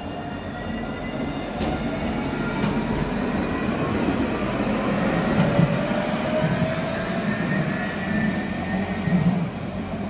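Alstom Citadis tram pulling away, its traction motors giving off rising whines over the rumble of wheels on rail, getting louder as it accelerates.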